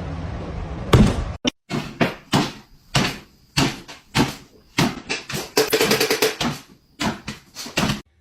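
Repeated knocks and bangs, roughly one or two a second, with a quicker run of rattling taps between about five and a half and six and a half seconds in.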